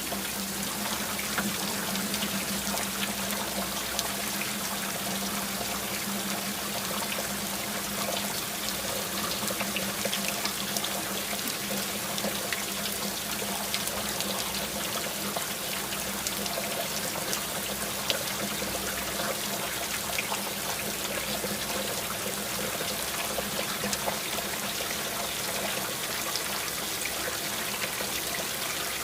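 Steady rain with many small drops ticking on a surface, over a continuous trickle of running water.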